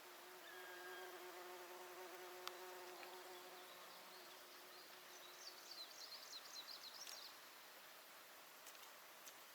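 An insect, a fly, buzzing steadily close to the microphone, fading out about halfway through. A brief high twittering follows.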